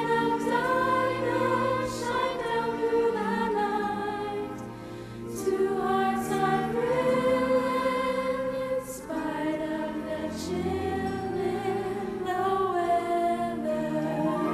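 A choir singing a slow, sustained choral piece, several voice parts holding long notes together.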